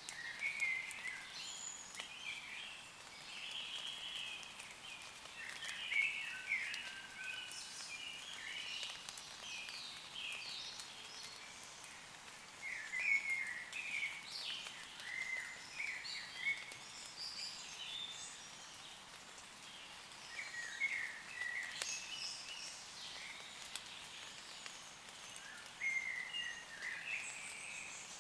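Woodland birds singing in short, quick chirping phrases, in bursts every few seconds, over light rain pattering on leaves. The birdsong is the loudest part, with the rain a soft steady hiss beneath it.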